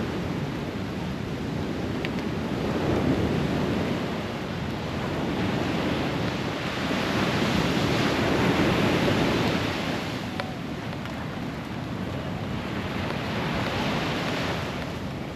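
Ocean surf breaking and washing on a beach, a continuous rush that swells and eases in several surges, with wind buffeting the microphone.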